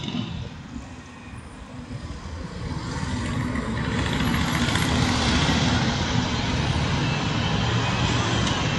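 Air ambulance helicopter's rotor and engine noise, growing louder over the first few seconds and then holding steady and loud. It is described as so noisy.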